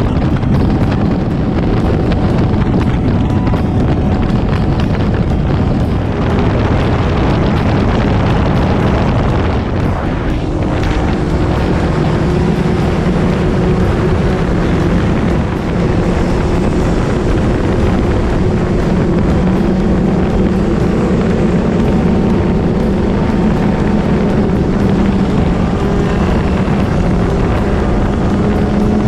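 Motorcycle engine and exhaust running steadily while riding, mixed with heavy wind noise on the microphone.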